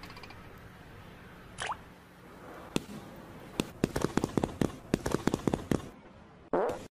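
A rapid, irregular series of sharp clicks and taps, thickening toward the end, with a short noisy burst just before the sound cuts off.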